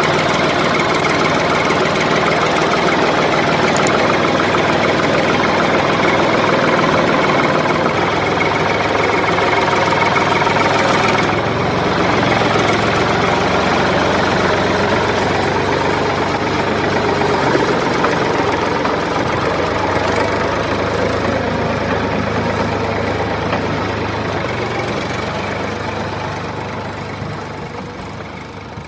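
A small motor running steadily with a dense mechanical whirr and buzz, fading out over the last few seconds.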